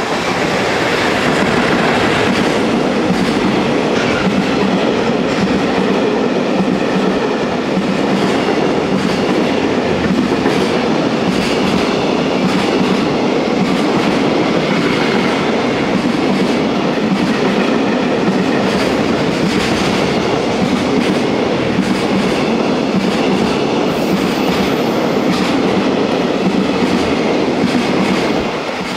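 A long freight train of container wagons, hauled by a JR Freight EF210 electric locomotive, running through a station close by: steady loud noise of steel wheels on rail with clickety-clack from the rail joints.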